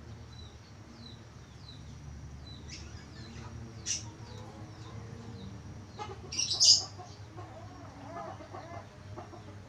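Budgerigar chirping: a run of short, quick falling chirps, a sharp call about four seconds in, and a louder burst of calls a little after six seconds.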